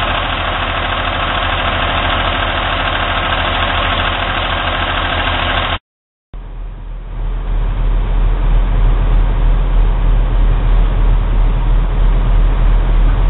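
Log truck's diesel engine running steadily. The sound drops out completely for about half a second just before the middle, then comes back as a deeper, heavier rumble that builds over the next second or two.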